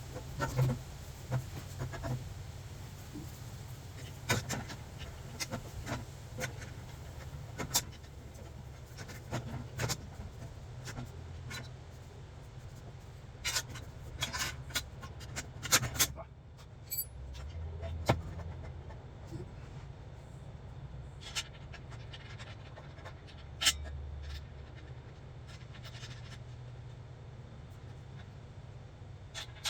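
Scattered clicks, clinks and knocks of hand tools and metal exhaust parts being handled during work on a Subaru WRX's turbo up-pipe, over a low steady hum.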